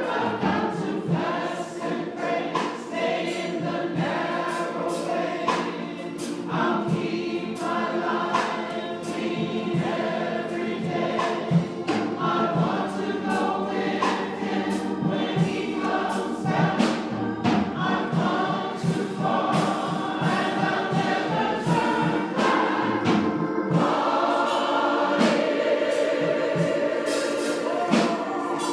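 Church congregation singing a gospel song together, with many voices and a steady beat of sharp claps or percussion.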